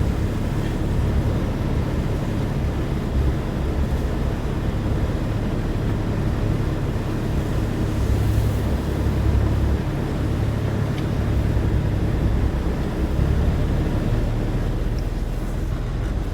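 Semi-truck's diesel engine running at low speed as the tractor moves slowly: a steady low drone that swells slightly now and then.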